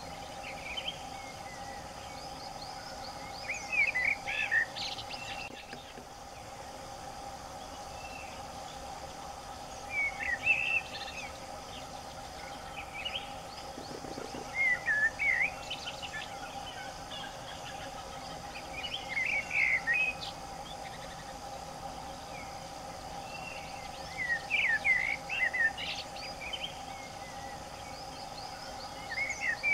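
Forest birdsong: a bird sings short bursts of quick chirping notes that sweep up and down, repeating every few seconds, over a steady background hum.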